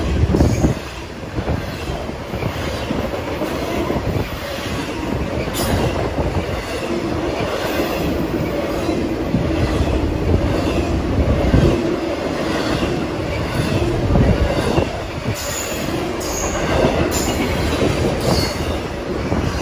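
Empty intermodal freight train of truck trailers on flatcars rolling past at speed: a steady rumble and clatter of steel wheels on the rails, with a few brief high wheel squeals in the last few seconds.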